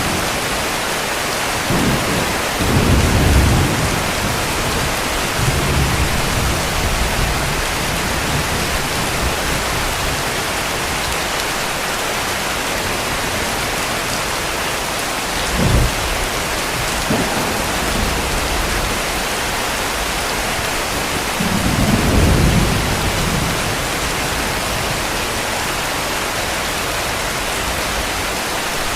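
Heavy rain falling steadily, with low rolls of distant thunder: a longer roll a few seconds in, a short one about halfway, and another longer roll about three quarters of the way through.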